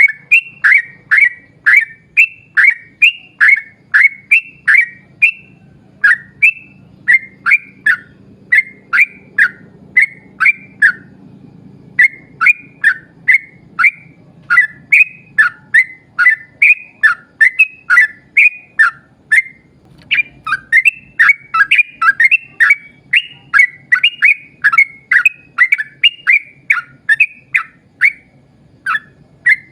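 Yellow-vented bulbul (trucukan) calling in long, rapid runs of short, sharp whistled notes, about two or three a second. The runs break off briefly a few times.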